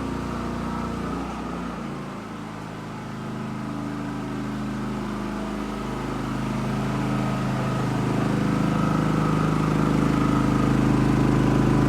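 Portable generator engine running; it settles to a lower, quieter note about two seconds in as its electrical load is switched off, then runs steadily and gradually grows louder toward the end.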